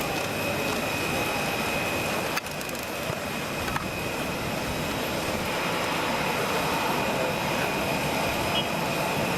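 Jet airliner engines running: a steady rush with a steady high whine. A short break and click about two and a half seconds in, after which the same sound goes on.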